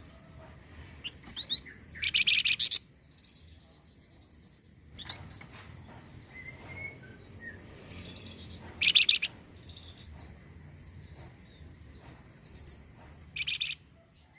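Flamboyan bird song played as a lure call: bursts of sharp, high, rapid chirping notes, loudest about two seconds in and again around nine seconds, with softer twittering between them over a faint low hum.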